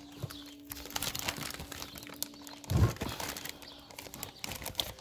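Close rustling and crinkling handling noise made of many small irregular clicks, with one louder dull thump a little over halfway through.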